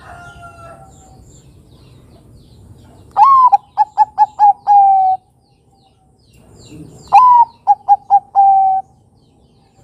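Perkutut Bangkok (zebra dove) cooing twice. Each phrase opens with a longer note, runs through a quick string of short coos and ends in a long held coo, the second phrase a little shorter than the first.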